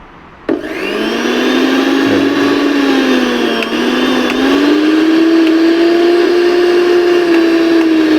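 Mixer grinder motor switched on about half a second in, spinning up quickly and then running steadily with a smooth hum and a slightly wavering whine. The worn bush at its coupler has just been oiled, and the machine runs smoothly with no rattle.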